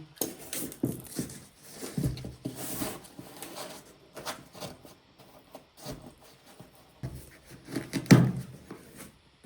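Irregular knocks, clicks and rubbing as things are handled, with a louder knock about eight seconds in.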